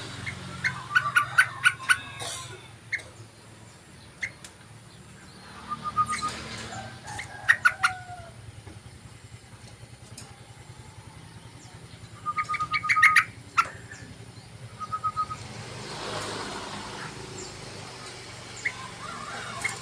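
Yellow-vented bulbul calling: several short bursts of rapid chirping notes, each lasting about a second, with single whistled notes between them. A steady low hum runs underneath.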